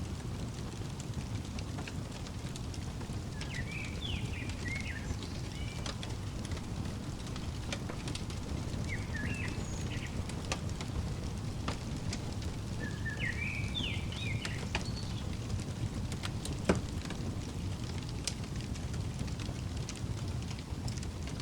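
Wood fire crackling in a fireplace: a steady low rumble with scattered sharp pops, one louder pop late on. A songbird chirps in three short bursts of quick high notes over it.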